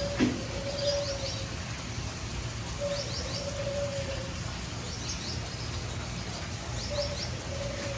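Birds singing: short clusters of quick, high chirps every couple of seconds, and a low cooing call (a short note, then a longer one) repeated about every three to four seconds. A single sharp knock sounds just after the start, over a steady low hum.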